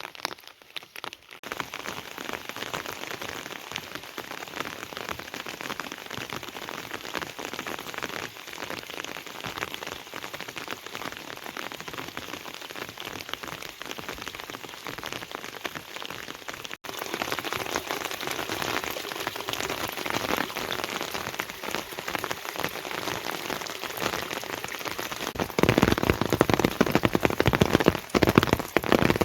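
Heavy rain falling, a dense hiss made of countless fine drop impacts. It breaks off for an instant about halfway through and comes back louder, then grows louder again near the end.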